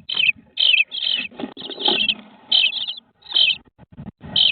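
Bluebird nestlings giving short, high calls inside a nest box, repeated about twice a second, over soft rustling and a few light knocks as they move against the box.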